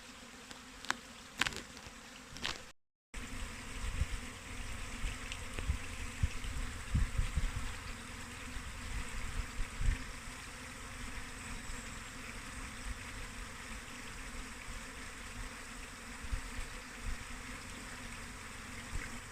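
A swarm of honeybees buzzing steadily as they mill around, with irregular low rumbles for several seconds after a brief dropout about three seconds in.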